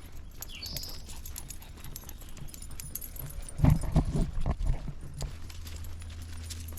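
Dogs and a walker moving along a woodland trail, with a cluster of low thumps and knocks about halfway through and a short high chirp near the start.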